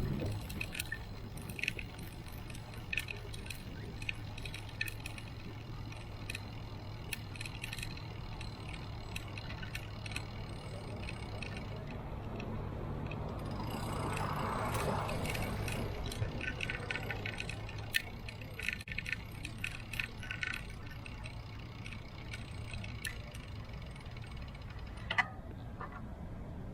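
Bicycle rattling and clicking on the move, over a steady low hum of road noise. About halfway through, a swell of noise rises and falls away.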